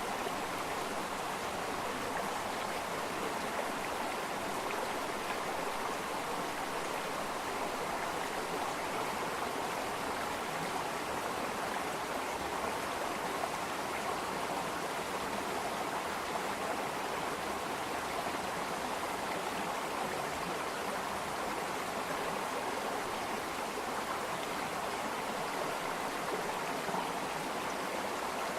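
Flowing water running steadily, an even rushing sound with no breaks or changes.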